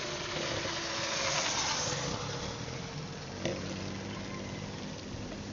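A motor vehicle engine running steadily, with a single sharp click about three and a half seconds in.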